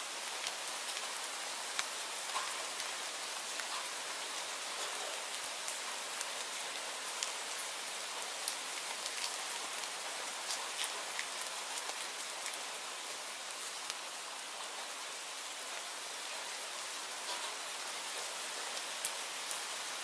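Steady rainfall, an even hiss with many single drops ticking sharply on a surface throughout.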